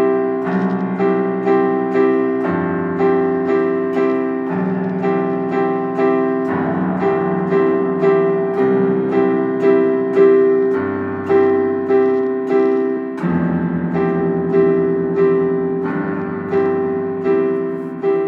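Keyboard played solo, repeating chords about twice a second over a bass note that changes every couple of seconds, in an instrumental passage of a song. The last chord near the end is left to ring and fade.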